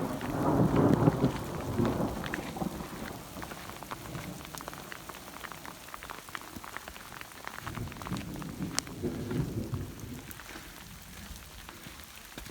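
Rain falling, with drops ticking sharply close by, and two rolls of thunder: one swelling right at the start and fading over about three seconds, and another about eight seconds in.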